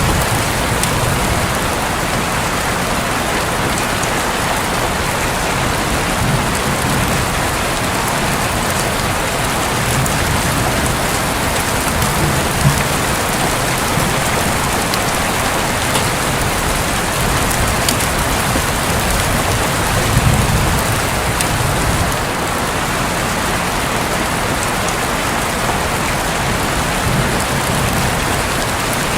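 Steady rain falling on a roof: a dense, even hiss with scattered sharp drop ticks. Low rumbles of distant thunder swell under it now and then, most strongly about twenty seconds in.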